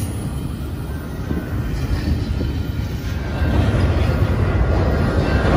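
Double-stack intermodal container train rolling past, its well-car wheels rumbling steadily on the rails. It gets louder about three seconds in.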